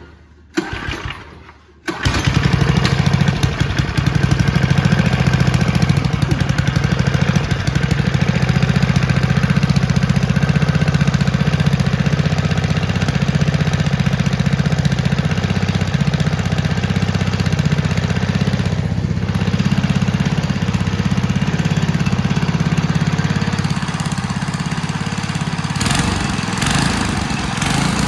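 Small replacement go-kart engine catching after a couple of brief bursts, then running steadily.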